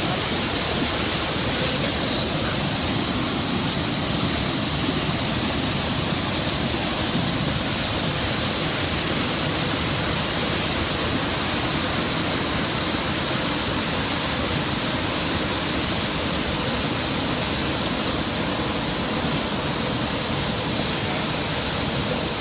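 A waterfall swollen by a flash flood, floodwater pouring over it in a steady, unbroken rush.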